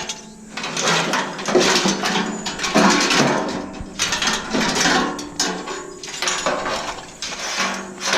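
Small metal parts, wiring and switches clattering and rattling as they are handled and pulled out of a stainless steel coffee maker being taken apart by hand, in a busy run of irregular clicks and knocks.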